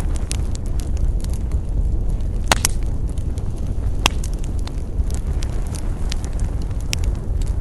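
Wood fire crackling: a steady low rumble with scattered small snaps and a few sharper pops, the loudest about two and a half, four and seven seconds in.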